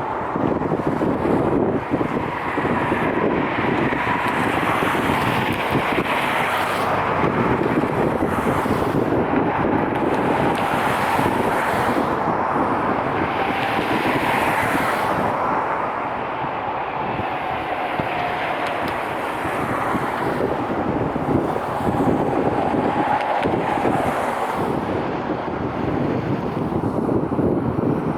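Jet airliner engines running, a steady noise with a faint whine that drifts slowly down in pitch and back up, mixed with wind buffeting the microphone.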